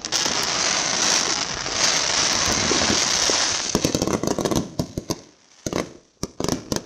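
Fireworks going off: a dense, continuous crackling rush for about four seconds that thins into scattered sharp pops and cracks, trailing off near the end.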